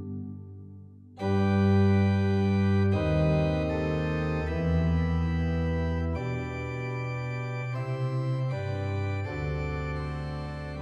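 Organ music: held chords that change every second or two. A chord fades out, and a new one comes in about a second in.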